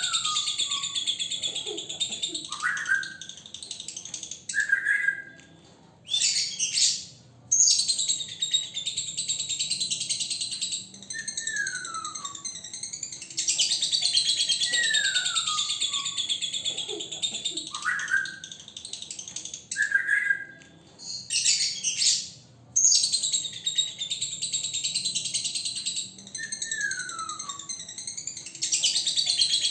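Male lovebird's dense, high chattering song (ngekek), in long unbroken runs that stop briefly a few times. Short falling whistles are mixed in every few seconds.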